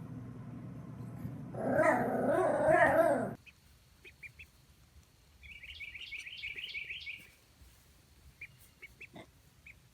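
Young animals calling: a whiny, wavering call for about a second and a half, then, after an abrupt change, a rapid run of high, short peeps and a few scattered peeps after.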